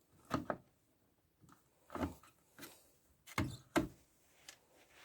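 Handling noises from work under a car's hood: about five short knocks and clicks spread over the few seconds, with quiet between them.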